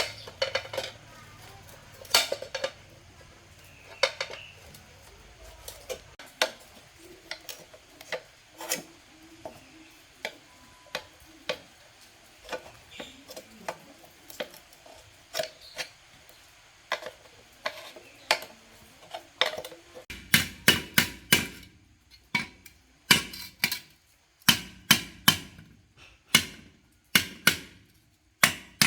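Metal tools clinking and tapping on metal, with sparse strikes at first, then from about two-thirds of the way through a quick run of ringing hammer blows, about three to four a second.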